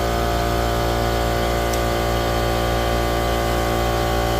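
A steady machine hum that holds one pitch and level throughout, with no starts, stops or changes.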